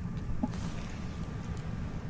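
Wood campfire burning: scattered small sharp crackles and pops over a steady low rumble.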